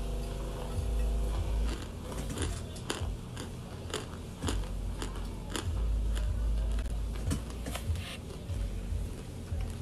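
Baked cornstarch chunks crunching as they are bitten and chewed close to the microphone: a string of sharp, dry crunches, a few a second, from about two seconds in until near the end.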